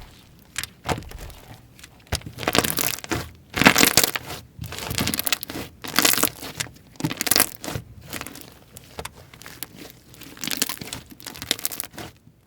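Slime being played with by hand: irregular squishing, crackling and tearing sounds in quick bursts as it is pressed, folded and pulled apart.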